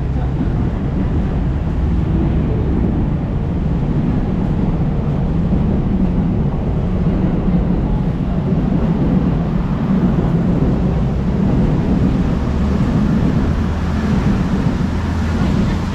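Steady low rumble of city street traffic, swelling a little midway and easing near the end.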